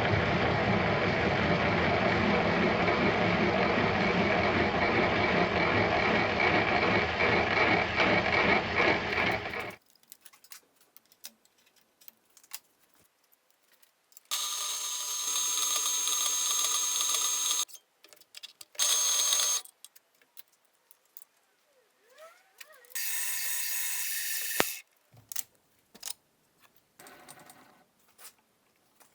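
Workshop power tools running in separate bursts: a loud, steady machining noise for about ten seconds that stops abruptly. Then light clicks and handling, and two short runs of a motor with a thin high whine.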